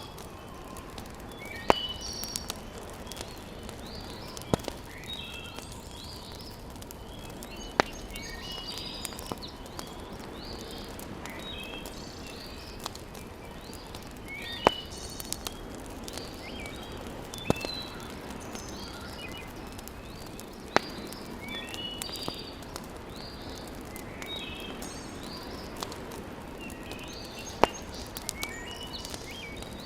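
Wood fire crackling in a fireplace: a steady low hiss broken by single sharp pops every few seconds. Birds chirp and twitter throughout in the background.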